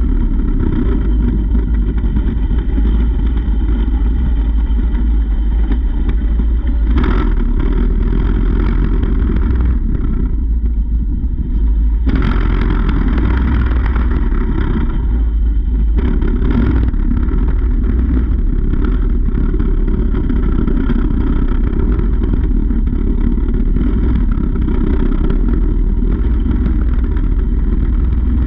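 Mini bike's small engine running under way, heard from a camera mounted on the bike, over a constant heavy low rumble. The engine note eases off about ten seconds in and picks up again around twelve seconds.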